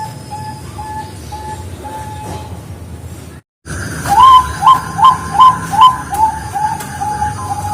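Perkutut Bangkok (zebra dove) cooing: a run of short, evenly spaced notes. After a sudden break about three and a half seconds in, five loud rising coos follow, then a faster string of quieter notes.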